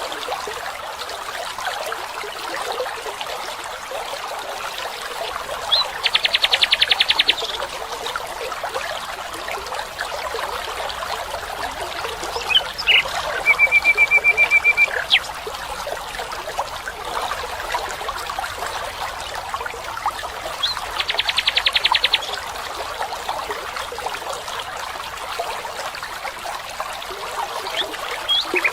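Steady trickling water of a small stream, with songbirds calling over it: a loud, rapid trill twice, about fifteen seconds apart, a quick run of repeated notes between them, and scattered chirps.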